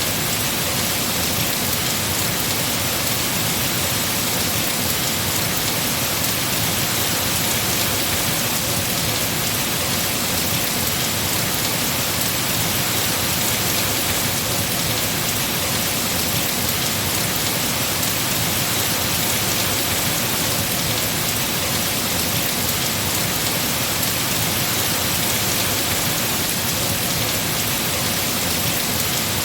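Heavy rain falling steadily on tree foliage, a dense, unbroken hiss.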